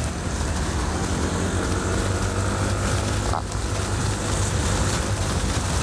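Yamaha N-MAX scooter's single-cylinder engine droning steadily under way, with wind rushing over the rider's microphone.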